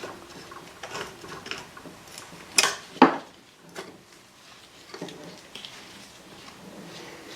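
Hand tools working on metal car parts: scattered clicks and clinks, with two louder metal clanks about two and a half and three seconds in.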